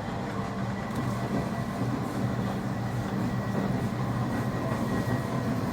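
Semboku 9300 series electric train, with Hitachi SiC VVVF inverter traction, running at speed between stations. Steady running noise of wheels on rail and traction motors, with a low hum throughout, heard from inside the front car.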